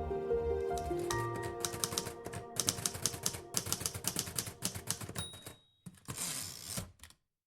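Background music fades out, then typewriter keys clack in quick irregular strokes, a short bell ring sounds about five seconds in, and a brief rasping sweep follows, like a carriage return.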